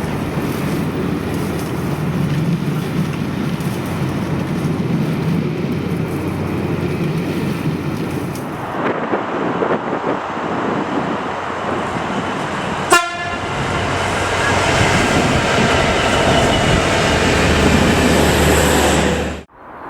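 Train passing close by with a steady rumble and rush of wheels on rail, growing louder in the second half. There is one sharp crack about thirteen seconds in, and the sound cuts off abruptly just before the end.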